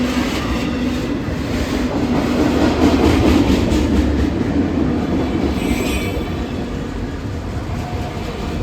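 Freight train cars rolling past close by, their wheels clicking steadily over the rail joints. The rumble swells about three seconds in, and a brief high wheel squeal comes about six seconds in.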